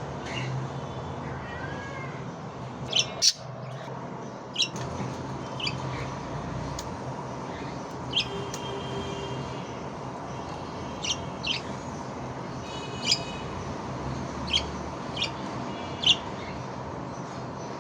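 Budgerigar giving short, sharp chirps, scattered a second or two apart and sometimes in quick pairs, over a steady background hum.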